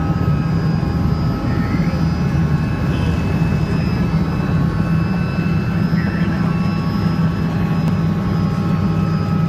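Helicopter running steadily in flight: a loud, even low drone with several steady high-pitched whining tones above it.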